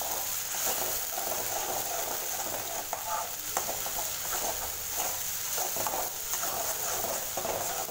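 Freshly added onion paste frying in hot oil in a metal kadai, sizzling steadily while a slotted metal spatula stirs it, with light scrapes of the spatula against the pan now and then.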